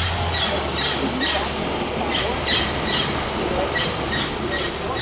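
Birds calling over and over in short, high, slightly falling squawks, about two a second, over a steady low hum.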